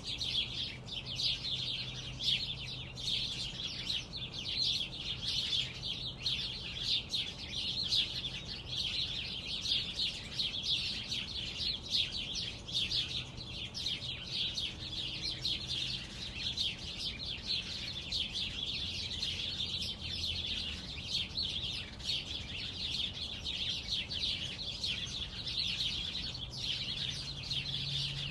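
Many small birds chirping and twittering together in a bush, a dense unbroken chatter of short high calls. A faint low hum sits underneath.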